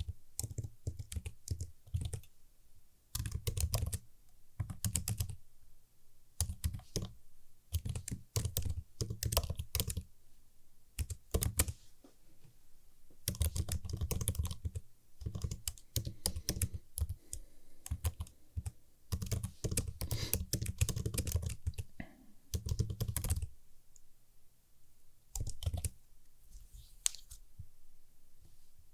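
Typing on a computer keyboard: crisp key clicks in quick runs, broken every few seconds by short pauses.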